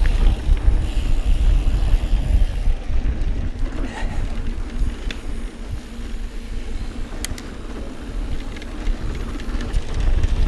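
Wind buffeting the microphone of a camera on a moving mountain bike, with the tyres rolling over a dirt trail and a few sharp clicks from the bike. The rumble eases off somewhat in the middle.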